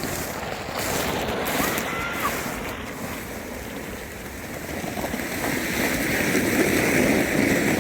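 A sled sliding down an icy snow slope: a continuous scraping hiss that grows louder toward the end.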